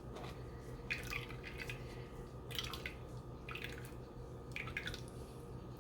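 Aloe vera and lye-water solution dripping and splashing through a strainer in irregular drops, over a steady low hum.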